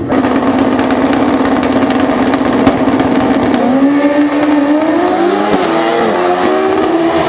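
Pro Street drag-racing motorcycle engines held at a steady high rev, then climbing in pitch as the bikes accelerate down the strip. A brief drop and re-rise about five and a half seconds in marks a gear change.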